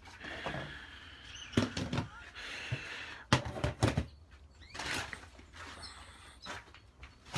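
A handful of irregular knocks and clatters from objects being handled and set down, each sharp and brief, in two small clusters about a second and a half in and around three to four seconds in.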